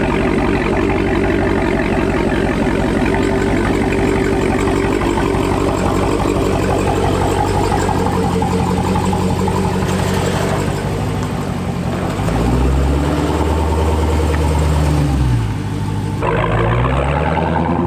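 Dodge Charger Hellcat's supercharged V8, its mufflers removed, running loudly as the car drives, steady at first. About twelve seconds in the revs climb and fall away, dip briefly like a gear change, then climb again near the end.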